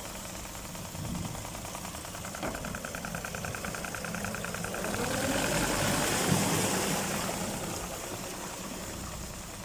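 Suzuki DF70 four-stroke outboard motor running. Its sound swells to a peak a little past the middle and then falls back.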